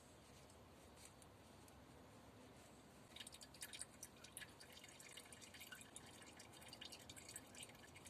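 Faint, irregular drips of old engine oil falling from the drain plug hole into a cut-down 5-litre plastic bottle. They start about three seconds in and are the last of the oil running out, the sign that the draining is nearly done.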